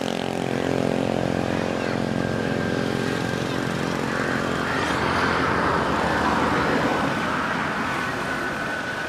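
A motor engine running with a steady hum that fades over the first few seconds, while a rushing noise swells and eases off about five to seven seconds in.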